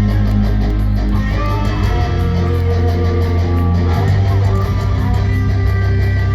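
Rock band playing live, opening a song: electric guitar and bass guitar holding long, sustained chords over a deep bass line.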